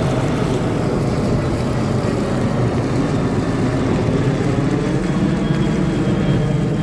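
Jet ski engine running steadily under way.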